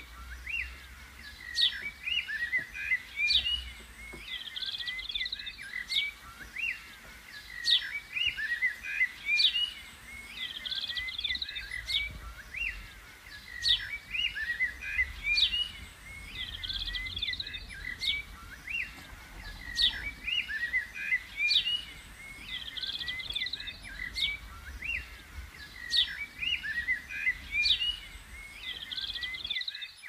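Small songbirds chirping, short bright phrases repeating about every second and a half, over a faint low rumble.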